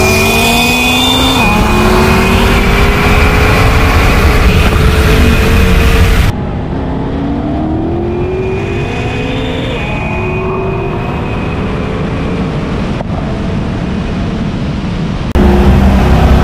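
Twin-turbo V8 accelerating hard through the gears, its pitch climbing and dropping back at each upshift, with a steady high whine over it. About six seconds in the sound switches abruptly to a quieter, duller recording of the same hard pull, then returns to full loudness near the end.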